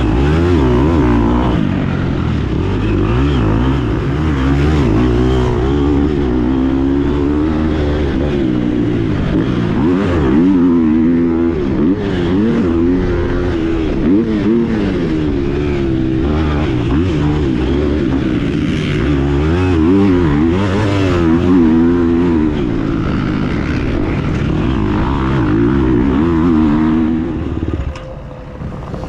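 KTM 250 SX-F single-cylinder four-stroke motocross bike being ridden hard, the engine note rising and falling over and over as the throttle is worked and gears change. Near the end the engine drops off and the sound quietens.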